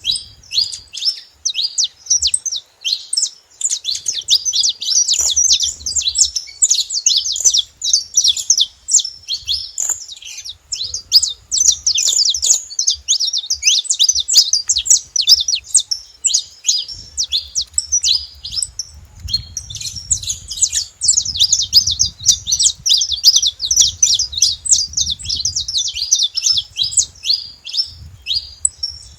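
Saffron finches chirping and singing: a dense, unbroken stream of quick high chirps, several overlapping at once.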